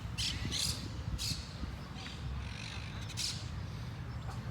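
Birds giving several short, harsh calls, the first few close together early and another past three seconds, over a steady low rumble.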